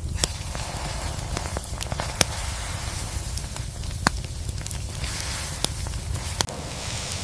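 Crackling: scattered sharp pops a second or two apart over a steady hiss and low rumble.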